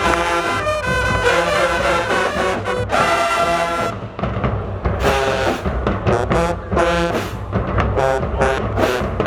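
Marching band brass section playing loud held chords, then switching about four seconds in to short punched chords over the drumline.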